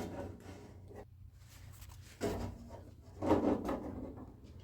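Short clunks and rubbing of metal parts being handled and fitted inside a car door: a door lock and its linkage. Two brief bursts, about two seconds in and again a second later.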